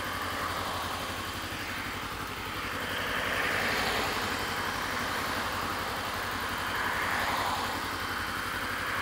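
Kawasaki Ninja 250 parallel-twin idling steadily through an aftermarket Pipewerx exhaust with its baffle fitted, while traffic passes with a rushing swell about three seconds in and again around seven seconds.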